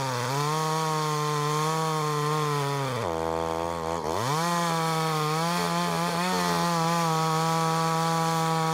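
1959 Stihl Contra two-stroke chainsaw running at high revs while making the back cut opposite the felling notch. A little after three seconds in, the revs drop sharply for about a second, then climb back and hold steady.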